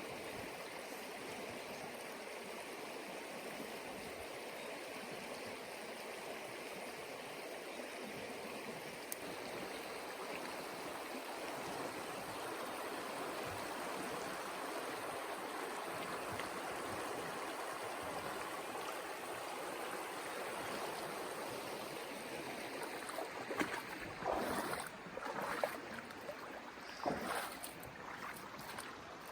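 Cold, swift mountain river rushing steadily. In the last few seconds come several louder irregular noises.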